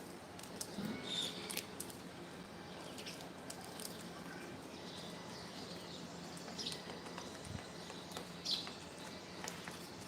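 A few short, high bird chirps over steady background noise, with scattered light clicks, the clearest about a second in, near the middle and toward the end.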